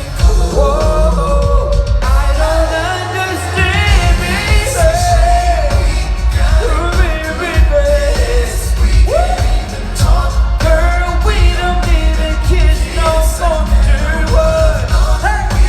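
Live R&B performance: singers holding and bending notes in gliding vocal runs over a loud band track with heavy bass.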